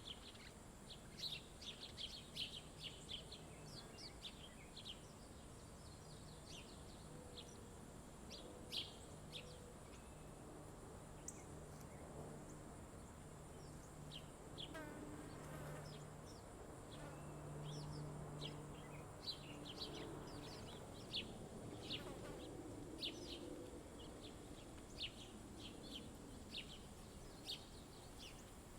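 Small songbirds chirping at a feeder: many short, high chirps, often in quick clusters, over a faint steady high whine. A low buzz comes and goes through the middle.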